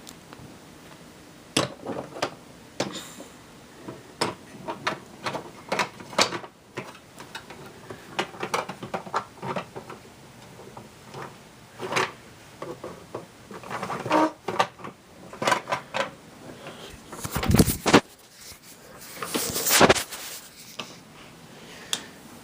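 Irregular clicks, clacks and knocks of a toy train set's pieces and track being handled on a train table, with louder knocks and a rattle about three quarters of the way through.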